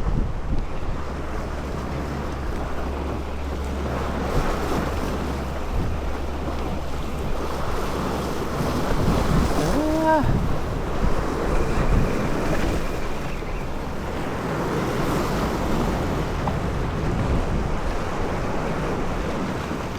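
Sea waves washing and wind buffeting the microphone at sea, with a steady low rumble for the first few seconds and one short pitched sound about ten seconds in.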